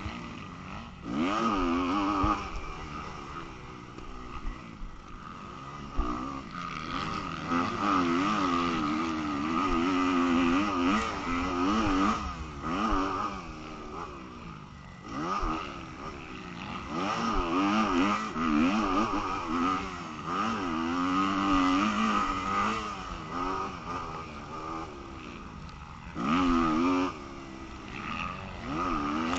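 Motocross bike engine revving hard and backing off over and over, its pitch climbing and dropping every second or two, with several louder surges.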